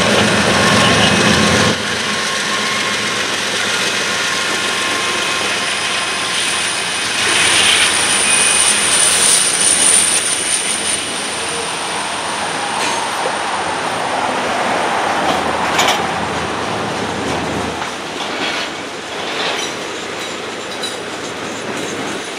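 Freight train rolling past. Diesel locomotives rumble by in the first couple of seconds, then gondolas and covered hoppers clatter over the rails with steady wheel noise. A high wheel squeal rises about seven to eleven seconds in, and a few sharp clacks come later over rail joints.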